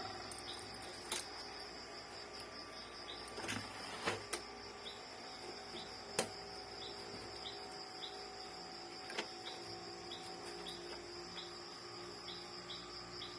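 A few light clicks and taps from printer parts being handled during reassembly, over a steady high-pitched background of insects chirping.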